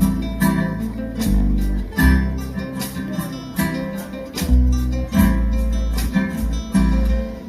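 Guitar music: chords strummed and plucked over deep, sustained bass notes.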